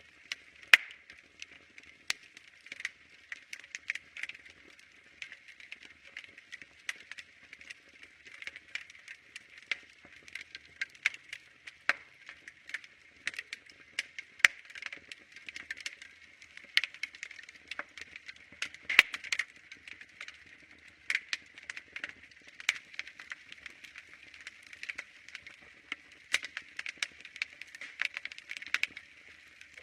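Wood fire crackling in a fireplace: irregular sharp pops and snaps, several every second, over a faint steady hiss.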